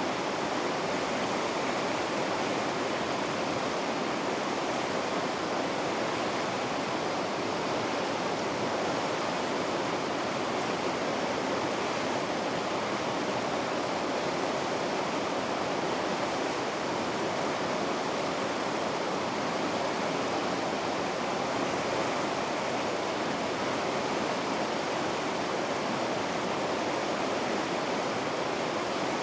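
River rapids running with a steady, even rush of water that does not change.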